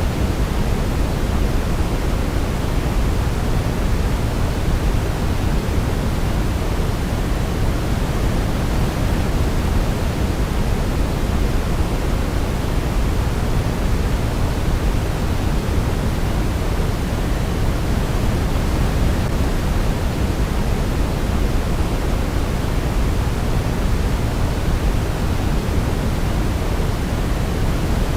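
Steady generated sleep noise: an even, unchanging hiss, fuller in the lows than in the highs, with no melody audible.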